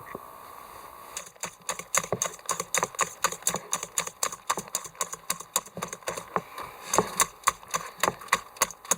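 A quick, irregular run of sharp taps or clicks, several a second, starting about a second in.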